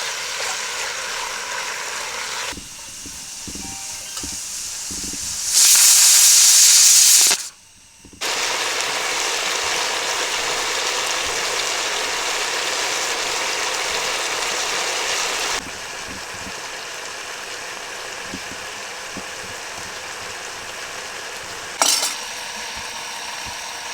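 Chicken pieces sizzling in hot coconut oil in a cast iron pot over a wood fire, a steady hiss that jumps in level at several abrupt changes. It is loudest and brightest for about two seconds around six seconds in.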